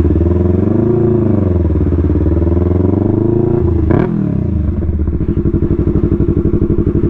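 Yamaha R3's parallel-twin engine running, its note rising and falling about a second in. A sharp click comes about four seconds in, after which the engine runs at a steady, pulsing note.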